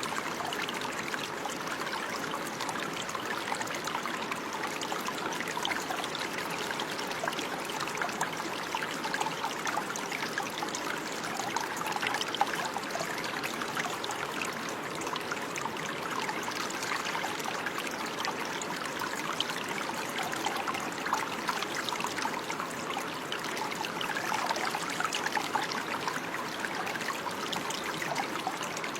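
Running water: a stream flowing and trickling steadily, with small splashes throughout.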